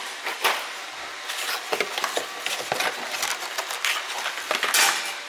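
Snack box packaging being handled: irregular crinkling, rustling and small clicks of cardboard and plastic packs being taken out and turned over, over a steady hiss.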